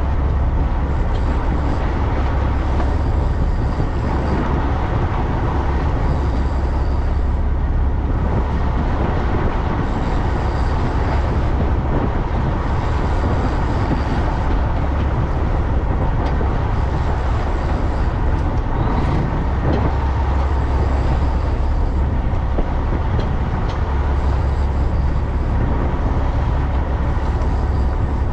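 Fishing boat running under way: a steady low engine drone under a rushing wash of wind and water that swells every two to three seconds.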